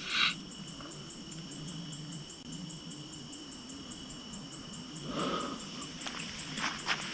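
Crickets chirping steadily in a fast, even trill. There is a short rustle about five seconds in and a few sharp clicks near the end.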